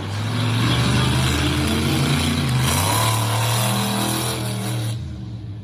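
Monster truck engine running hard at high revs, with a dense, loud exhaust note. It eases off about five seconds in.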